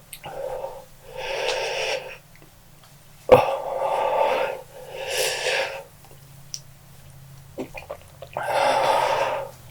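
A person breathing hard through the mouth in about five heavy, rasping breaths with pauses between them, one drawn in sharply about three seconds in: panting against the burn of the Paqui One Chip Challenge pepper chip.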